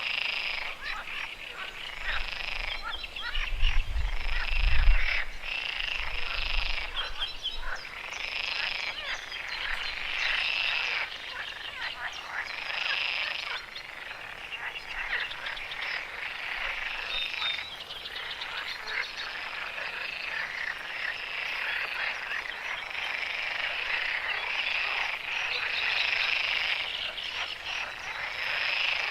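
A chorus of frogs calling in a wetland, many overlapping croaking calls swelling and fading in repeated bouts. A brief low rumble comes about four to five seconds in.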